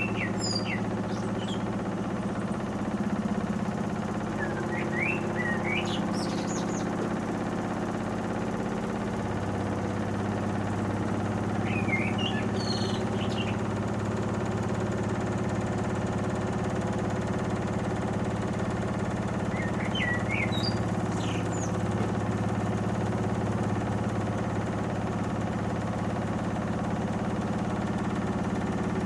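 Panasonic inverter front-loading washing machine running with a steady hum from its motor and drum. Small birds chirp in four short bursts over it.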